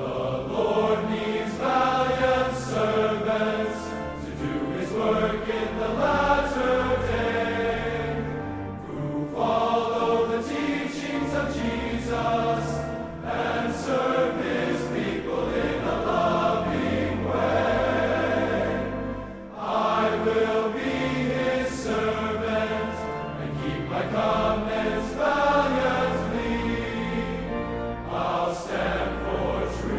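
Choir singing a slow hymn-like piece with instrumental accompaniment, in phrases with short breaks about nine seconds in and again near twenty seconds.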